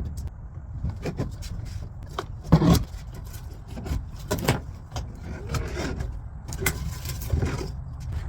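Irregular knocks, cracks and scrapes of rotted wood and paneling being pried and pulled apart by hand while gutting an old truck camper, the loudest knocks about two and a half and four and a half seconds in, over a steady low rumble.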